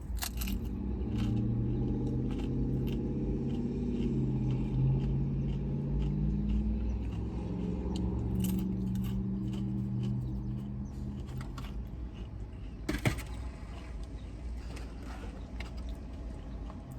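Eating and food-handling sounds in a parked car: small clicks, crackles and rustles of food and packaging, with one sharp louder click about 13 seconds in. Under them a low engine hum shifts in pitch and fades out after about ten seconds.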